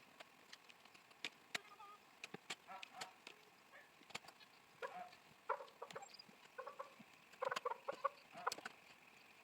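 Chickens clucking: short, faint calls in loose runs, busiest a little past the middle, with scattered light clicks.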